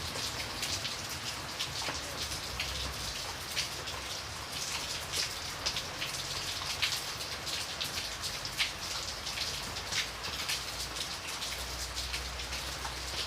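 Steady rain with many individual drops striking a surface in sharp, irregular ticks over a continuous hiss.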